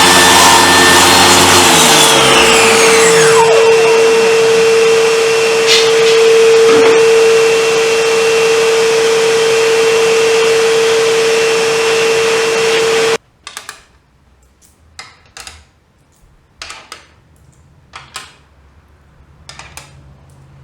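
Table saw motor winding down after being switched off, its falling whine dying away within the first few seconds. A steady loud hum with a high hiss runs on and cuts off abruptly about 13 seconds in. After that come scattered light knocks and clicks.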